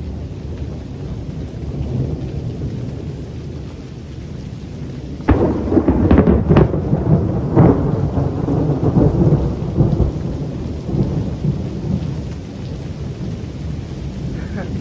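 Thunder over steady rain: a low rumble, then a sudden loud crack about five seconds in, a few sharp crackles and a long rumble that slowly dies away.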